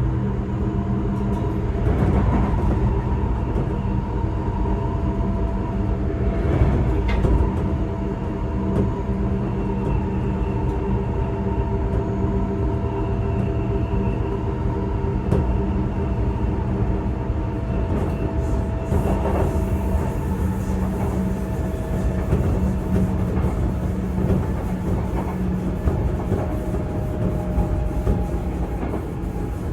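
Running sound inside a Sotetsu 8000 series electric train's equipment-renewed motor car between stations: a steady rumble with several steady tones from the traction motors and drive equipment. A few sharp clicks and knocks from the wheels on the rails come through, one group around a third of the way in.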